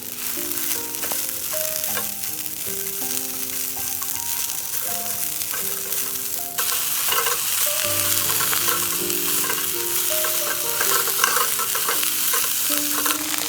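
Food sizzling in a frying pan, with a dense crackle that jumps louder about halfway through. Soft background music of held notes plays underneath.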